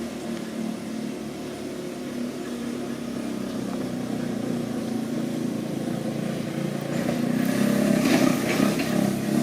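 A vehicle engine running steadily, getting louder and noisier about eight seconds in.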